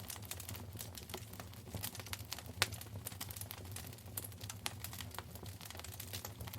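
Wood fire in a fireplace crackling: irregular sharp pops and snaps over a low steady rumble of the flames, with one louder pop about two and a half seconds in.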